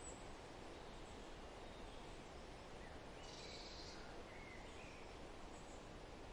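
Faint forest ambience: a steady soft hiss with a few faint bird chirps in the middle, and a short high buzzy trill a little over three seconds in.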